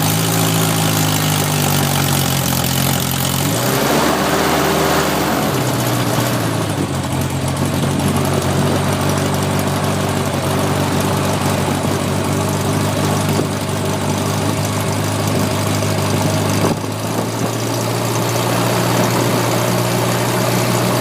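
Rotax 912 four-cylinder boxer aircraft engine, fitted with a big bore kit and a tuned 4-into-1 exhaust, running at idle just after start-up, with the propeller turning. The note changes briefly about four seconds in and shifts again near seventeen seconds, otherwise holding a steady loud idle.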